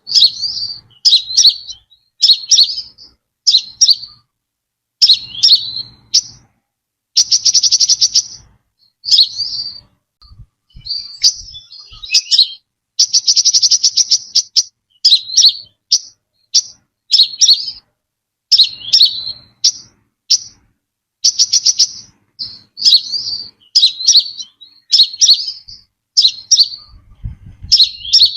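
Brown-throated sunbird calling: sharp, high chirp phrases about once a second, broken by a few fast rattling trills.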